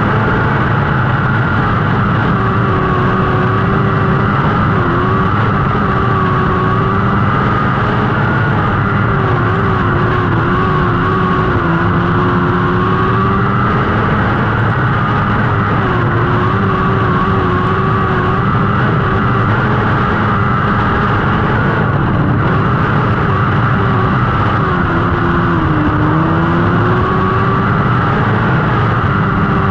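Lightning sprint car engines running hard during a race, a steady high-revving drone whose pitch eases off and climbs back every few seconds.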